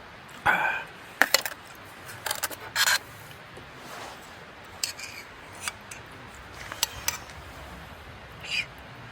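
Eating utensils clinking and scraping against cookware during a meal: a string of separate sharp clicks and short scrapes.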